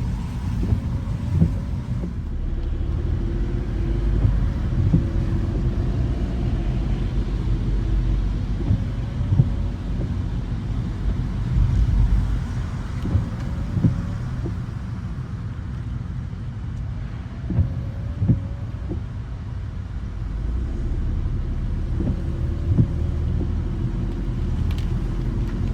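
Car driving, a steady low road rumble with a few brief knocks now and then.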